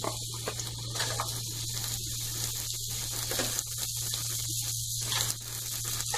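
Chopped raw potato pieces frying in hot oil in a kadai: a steady, high sizzling hiss.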